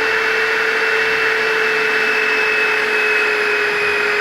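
Electric drill running at a steady speed, its bit boring into square steel tube; the bit is going dull.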